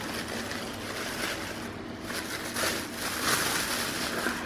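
Plastic food packaging rustling and crinkling as it is handled and opened, in uneven swells.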